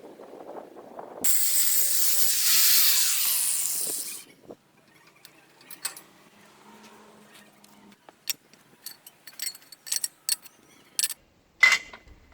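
Angle grinder grinding steel for about three seconds, cleaning rust and weld spatter off welded steel legs. It then goes quiet, followed by scattered light metallic clicks and taps.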